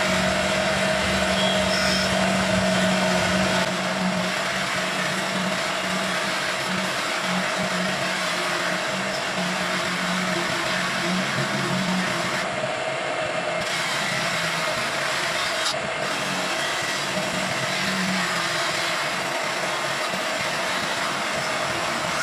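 Electric headlight polishing machine running steadily against a car's plastic headlight lens, a hum over a rough hiss, with the motor's pitch wavering from time to time.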